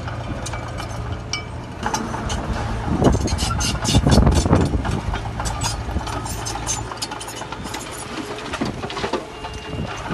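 Heavy diesel earthmoving machinery running, with many short metallic clanks and rattles. The engine swells louder for a couple of seconds about three seconds in, then settles.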